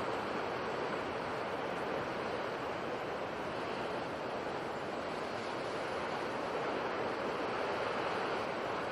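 Steady wash of sea surf: an even, continuous hiss of breaking water with only slight swells in level.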